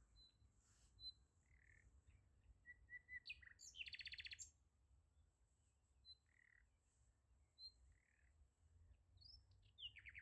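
Faint birdsong: scattered short high chirps, a brief rapid trill about four seconds in, and a quick falling run of notes near the end.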